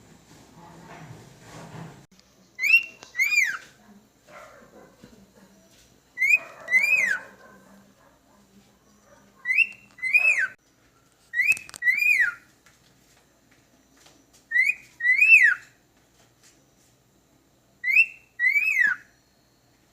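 Cockatiel whistling its song: a short two-note phrase, a brief high note followed by a longer note that rises and then falls, repeated six times every few seconds.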